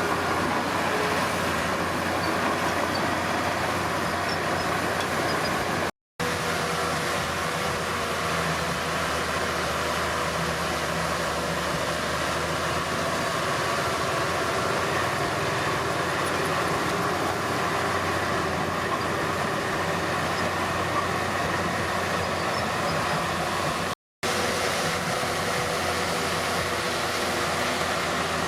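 Komatsu D31P bulldozer's diesel engine running steadily under work. The sound drops out completely for an instant twice, about 6 seconds in and about 24 seconds in.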